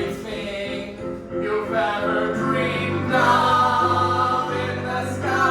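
Music with singing: several voices sing long held notes together over a steady accompaniment, changing notes every second or so.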